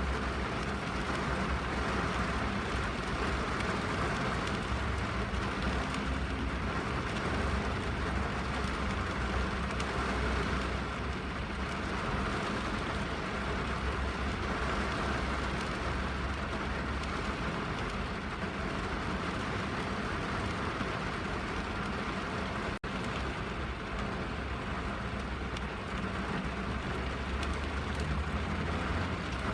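Steady rain drumming on a car's roof and windows, heard from inside the cabin with a low rumble beneath it. The sound briefly cuts out once, about two-thirds of the way through.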